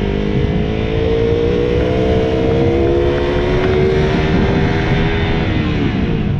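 Motorcycle engine under way, its pitch climbing slowly as it gathers speed, then falling away near the end as the throttle eases off.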